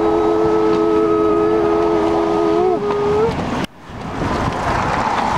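A long horn blast of several steady tones sounding together as a chord, ending about three seconds in with brief upward slides in pitch. It cuts off abruptly, and a steady rushing noise follows.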